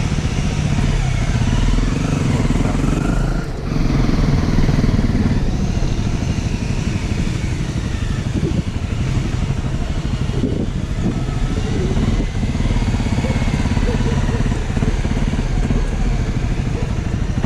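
Small dual-sport motorbike engine running while riding, its pitch wavering with the throttle, with a short dip in loudness about three and a half seconds in.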